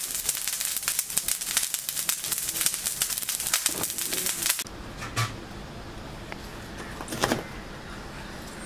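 Food frying in hot oil, a dense sizzle and crackle that cuts off abruptly about halfway through. A quieter low background follows, with a faint knock.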